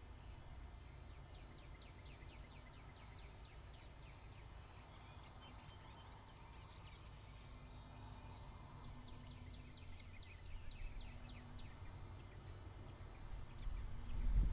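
Two runs of quick, high, downslurred bird chirps, each a few seconds long, alternating with a thin high buzz, over a low wind rumble on the microphone that grows near the end.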